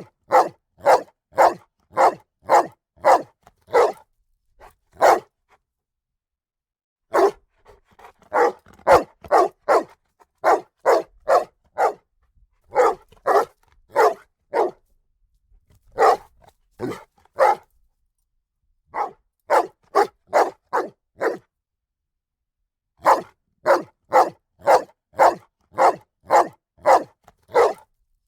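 A dog barking loudly in runs of sharp barks, about one and a half barks a second. The runs are broken by short silent pauses of a second or two.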